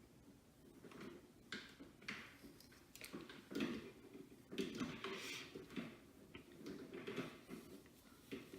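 Quiet, irregular rustling of hair and small clicks and taps as a 1-inch clamp curling iron is handled and wound through a section of hair.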